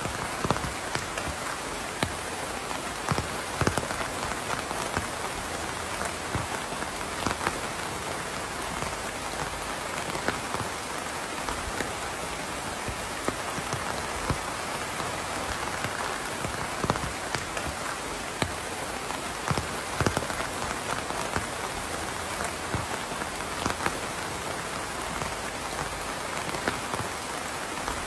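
Steady rain falling, an even hiss with individual drops ticking sharply on a hard surface here and there.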